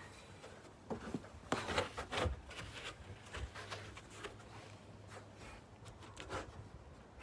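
Siberian husky and shepsky puppy biting into and eating snow: scattered soft crunches and scrapes, most of them in the first half.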